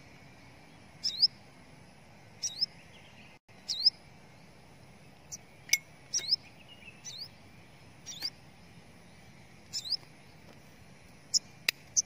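A small bird's call repeated about every one to two seconds: a sharp tick followed by a quick rising chirp, high-pitched. A couple of sharp clicks stand out, one near the end.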